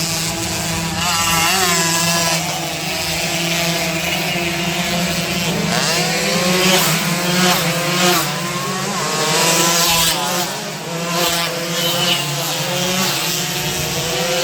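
Two-stroke underbone racing motorcycle engines revving hard and passing, their pitch rising and dropping again and again, with a steady low drone underneath.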